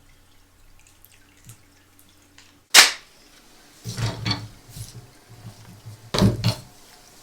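Pez dispenser packaging being handled and opened: faint ticks, then a sharp snap about three seconds in, followed by two bursts of handling noise.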